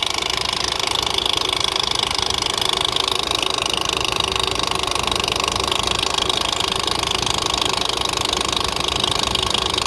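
Nissan engine running with a steady, fast ticking, which the owner fears may be a serious fault.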